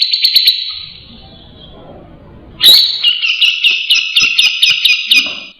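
Cucak jenggot (grey-cheeked bulbul) giving harsh, rapid chattering calls: a rattling burst that breaks off about half a second in, then after a short pause a louder chattering phrase of quick repeated notes lasting about three seconds.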